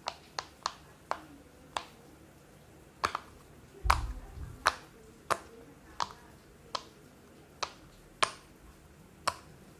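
A person making a string of sharp popping sounds, about a dozen single pops at an uneven pace of roughly one every half second to a second. A short, dull low thump comes just before the middle.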